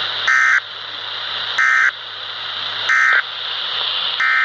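NOAA Weather Radio sending its digital SAME data tones: three short identical screeching bursts about a second apart, the end-of-message code closing one warning, then a longer burst near the end starting the header of the next warning. A steady hiss and low hum from the radio run underneath.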